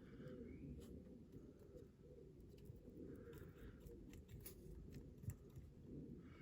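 Near silence: low room hum with a few faint clicks and soft handling noises.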